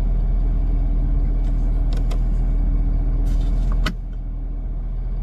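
Pickup truck engine running steadily, then dropping in level about four seconds in, with a sharp click at that moment.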